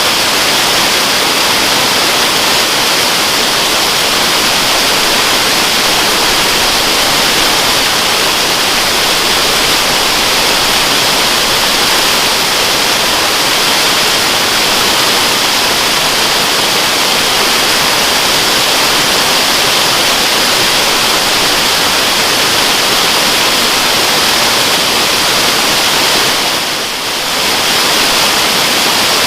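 Waterfall rushing steadily with an even, hissy roar, briefly dipping in level near the end.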